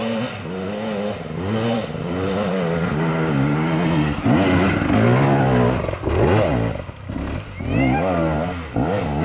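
KTM enduro motorcycle engine revving hard and unevenly, its pitch rising and falling again and again as the rider works the throttle on a steep hill climb.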